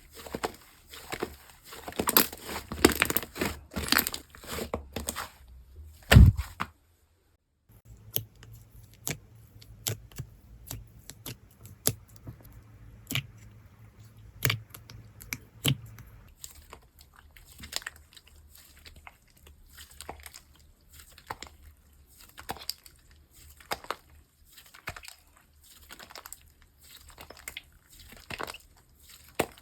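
Slime being squished and stretched by hand, making a steady run of sticky clicks, pops and crackles. There is one low thump about six seconds in, then a second of silence before the clicking resumes.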